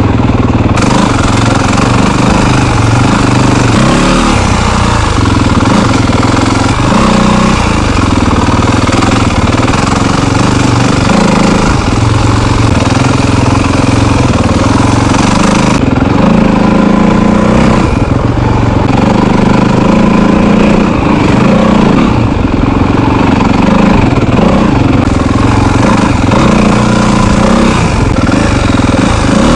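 Yamaha WR250F dirt bike's single-cylinder four-stroke engine running under way, its pitch rising and falling with the throttle.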